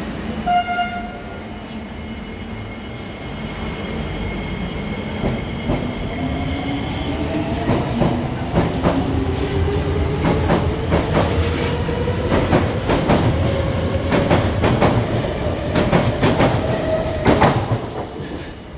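SMRT C151C electric train pulling out of the station. A brief horn toot sounds about half a second in, then the motor whine rises steadily in pitch as the train accelerates. A quick run of wheel clicks over the rail joints follows, and the sound drops away near the end.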